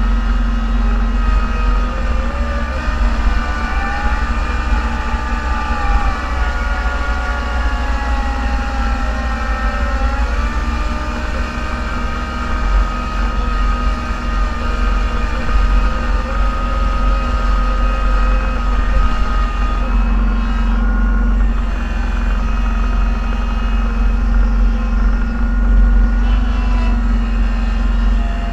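Snow-plowing vehicle's engine running steadily, heard from inside the cab as a loud low drone, with a whine that rises and falls in pitch for several seconds near the start as the vehicle works.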